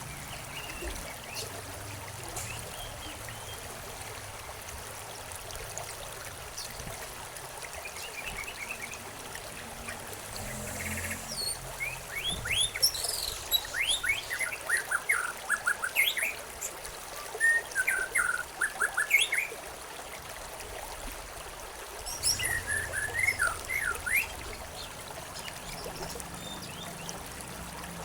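Water trickling steadily in a small stream, with songbirds singing over it: a long run of quick chirps and fast falling notes in the middle, and a shorter run a few seconds later.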